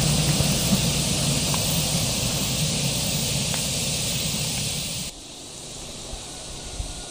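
Low rumble of a train that has just passed, fading slowly under a steady hiss of wind. About five seconds in it cuts to a quieter outdoor background of rustling leaves.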